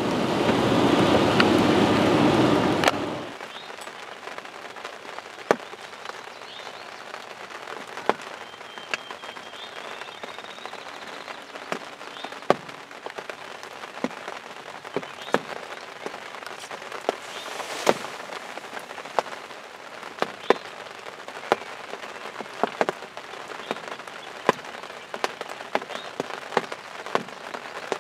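Road and rain noise inside a car on a wet highway for about three seconds, then steady rain with drops tapping irregularly on a nearby surface.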